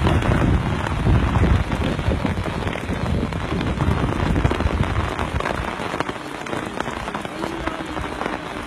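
Heavy rain falling and pattering on a surface, with a dense low rumble that eases off after about six seconds.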